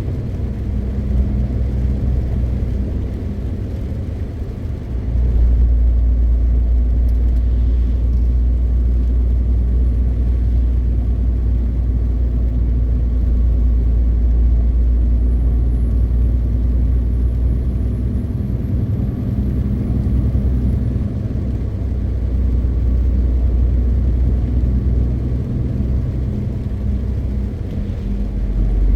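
MAN TGX 520 truck's six-cylinder diesel running at road speed with tyre and road noise, a steady low drone. It grows louder about five seconds in and eases a little near the end.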